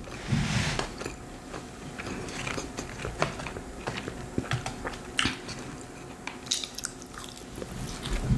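Close-miked eating: a bite with a short crunch in the first second, then chewing with scattered small clicks of the mouth.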